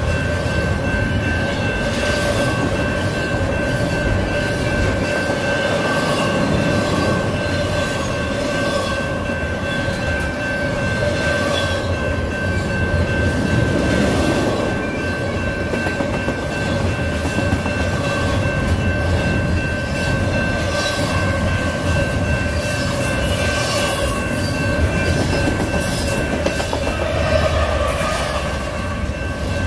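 Double-stack intermodal container cars rolling past at close range: a continuous rumble with rhythmic wheel clatter over the rail joints and steady high-pitched tones over the top.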